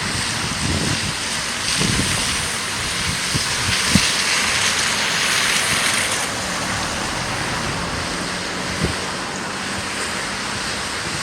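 Storm wind buffeting the microphone with low thumps over a steady rushing noise. The rush swells for a few seconds about two seconds in, then eases back.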